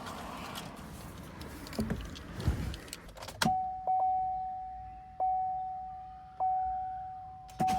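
Keys jangling and rustling, then about three and a half seconds in a 2017 Chevrolet Tahoe PPV's dashboard warning chime begins: one steady tone that dings and fades about once every second and a bit, as the key is put to the ignition before starting.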